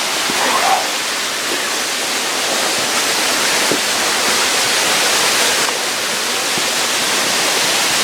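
Waterfall cascading over rocks: a steady loud rush of falling water.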